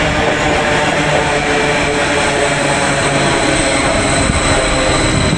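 Greater Anglia electric multiple unit running past: a steady rumble of wheels on rail with a thin, steady high whine above it.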